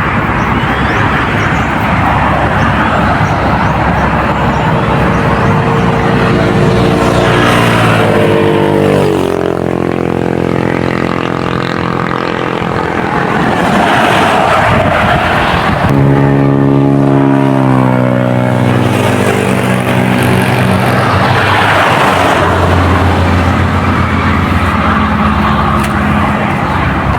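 Motor vehicle engines passing steadily, with an engine note that drops in pitch as one goes past about a third of the way in and another about two-thirds of the way in.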